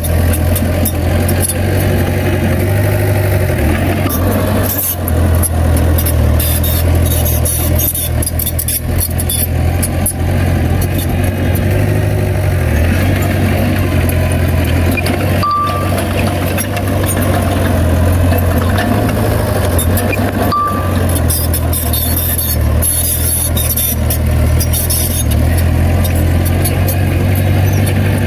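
Heavy diesel engine of earthmoving machinery running steadily, its load rising and easing, with metallic clanks and rattles throughout. Two short high beeps sound about halfway through, about five seconds apart.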